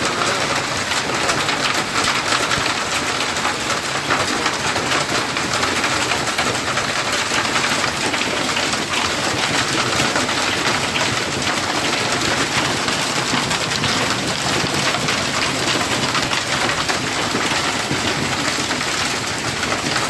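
Hail falling without rain: a dense, steady patter of hailstones striking.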